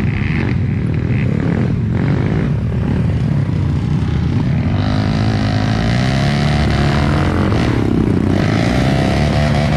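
Trail dirt bike engine running hard, its pitch rising and falling repeatedly as the throttle is opened and eased off.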